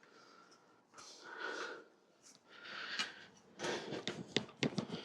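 Rag rubbing over a steel bicycle frame in a few soft swishing strokes, followed near the end by a run of light clicks and knocks as the frame is handled.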